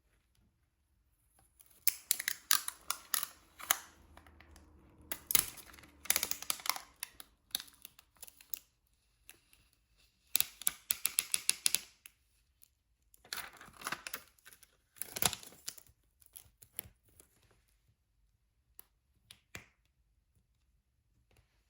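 Diamond painting: small resin drills and a drill pen clicking and rattling in quick bursts of sharp ticks, with short quiet gaps between them.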